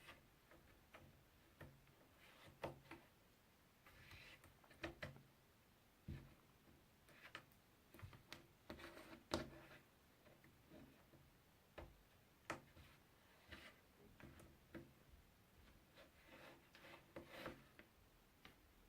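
Faint, irregular clicks, taps and short scraping rubs of puzzle pieces being handled and fitted together.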